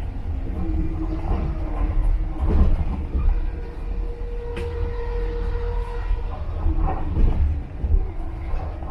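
Moving passenger train heard from inside the carriage: a steady low rumble of the wheels running on the track.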